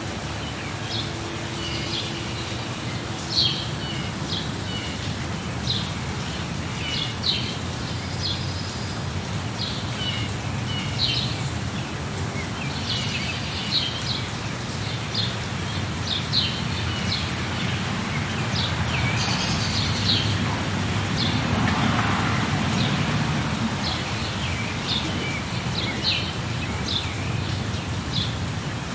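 Birds chirping in short, sharp calls about once a second over a steady low background noise. The background swells for a few seconds about two-thirds of the way through.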